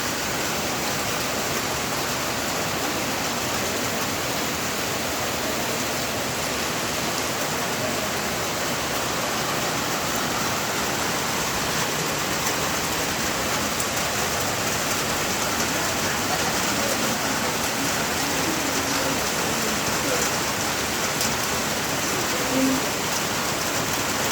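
Heavy rain falling steadily, a dense even hiss of rain on surfaces with a few sharper drop ticks.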